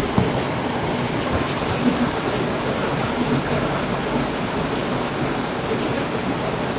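Heavy rain falling steadily, with a few louder close drops ticking out of the even hiss.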